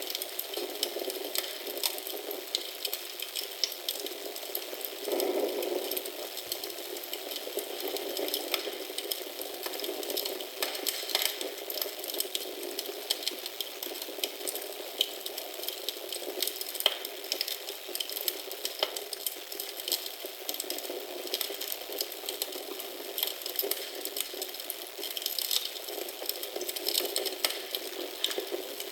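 Wood fire crackling, with frequent small pops and snaps over a steady hiss.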